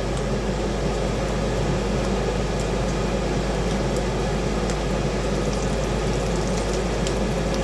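Bacon sizzling in a frying pan: a steady hiss with scattered small pops, over a constant low hum.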